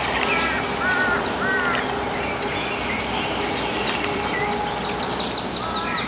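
Wild birds calling over a steady outdoor hiss: a few repeated arched whistled notes in the first two seconds, and a quick run of high, falling notes about five seconds in.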